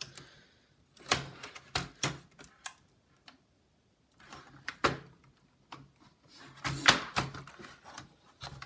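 Plastic laptop top case being pried up with a pry tool: a series of irregular clicks, snaps and knocks as the clips give, with a cluster of them near the end.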